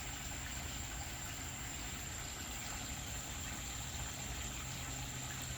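Steady rush of running water at a pond, with a continuous high, thin trill of crickets above it.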